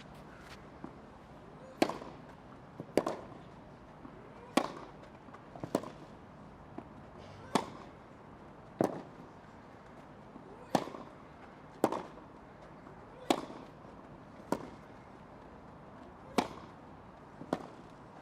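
Tennis racquets striking the ball back and forth in a long rally: about a dozen sharp pops, one every second or two.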